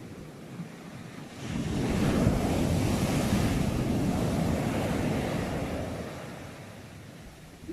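Sea waves breaking on the shore. One wave swells in about a second and a half in, crashes and washes for several seconds, then fades away near the end.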